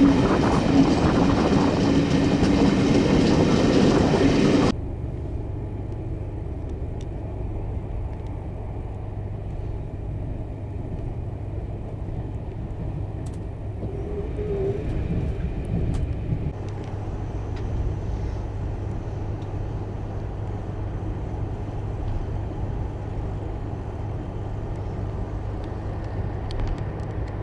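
Loud noise of a train pulling out of a station, heard through an open carriage window, cutting off abruptly about five seconds in. After the cut comes the steady low rumble and hum of a train running, heard from inside the carriage.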